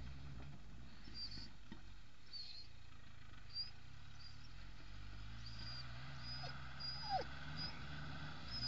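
Distant Suzuki Samurai engine running faint and steady as the 4x4 drives across the field. Short faint high chirps recur throughout, and two brief falling whines come near the end.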